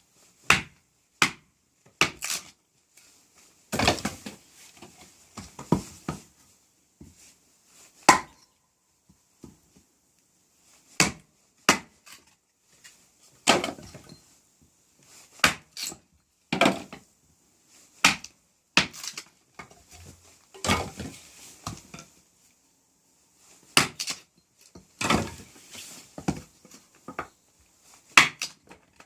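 Small hatchet tapping into small pieces of firewood: sharp wooden knocks at irregular intervals, a second or so apart, some followed by a longer crackle as the wood splits apart.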